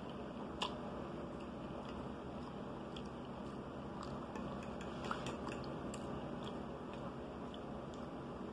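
A person chewing a mouthful of meatloaf and mashed potatoes, with scattered small clicks (a fork against the plate and mouth clicks), the sharpest about half a second in and another about five seconds in, over steady background noise.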